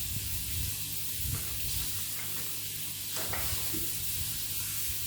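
Meat patties frying in a pan, with a steady sizzle and a low hum underneath and a couple of faint knocks.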